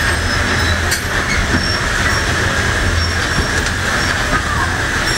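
Passenger train running, heard from aboard: a steady rumble of wheels on the track, with faint thin high squeals now and then.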